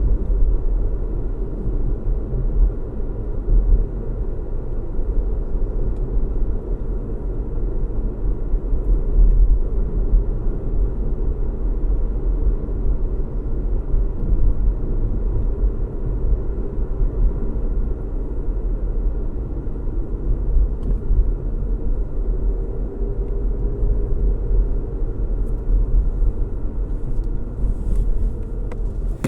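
A car driving steadily: a low, even rumble of engine hum and road noise.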